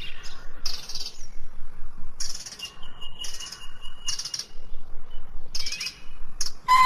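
Wild songbirds chirping in repeated short, high bursts, with one thin, steady whistled note held for about two seconds in the middle.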